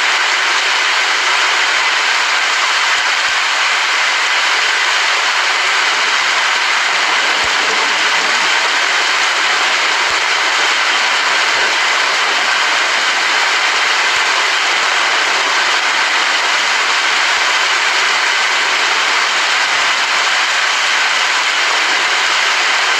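Steady rain falling, a dense, even hiss that does not change in level.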